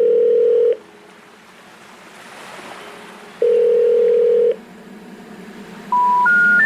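Electronic beeps: two long, flat, mid-pitched beeps, then near the end three short beeps stepping up in pitch. A faint rush of wind noise fills the gaps.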